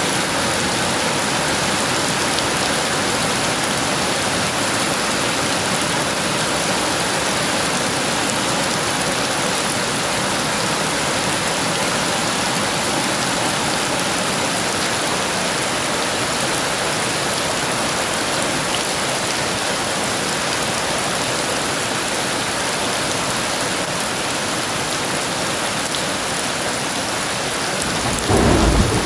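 Heavy rain falling steadily in an even hiss. Near the end a short, louder low rumble of thunder rises over it.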